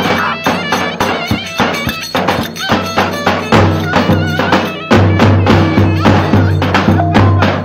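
Traditional Turkish folk dance music played live: a wavering melody line over fast, dense percussion and a pulsing bass.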